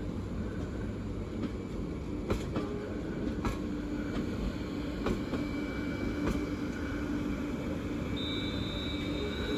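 Class 350 Desiro electric multiple unit rolling slowly past, a steady rumble and low hum with sharp clicks from the wheels crossing the track every second or so. A thin high tone comes in near the end.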